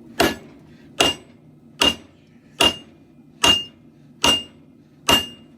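Hammer striking the steel of a katana blade on an anvil: seven evenly spaced blows, a little faster than one a second, each with a short metallic ring.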